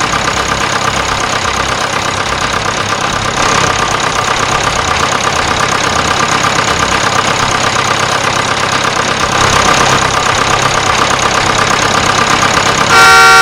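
A small motor running steadily with a fast, even rattle. A loud horn sounds just before the end.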